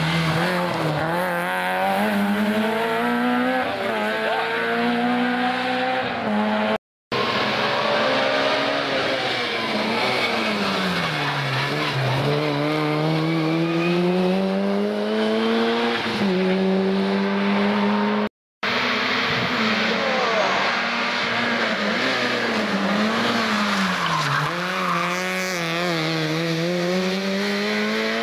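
Rally car engines revving hard, their pitch climbing and falling again and again with gear changes and lifts off the throttle. The sound cuts out completely twice, briefly, about seven and eighteen seconds in.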